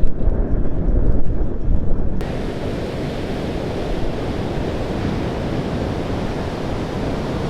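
Wind buffeting the microphone for about two seconds, then a sudden change to a steady wash of ocean surf.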